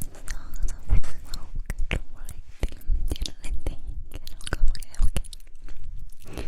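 Close-miked ASMR mouth sounds: a dense, irregular run of wet clicks, smacks and pops from the lips and tongue, with breathy noise between them.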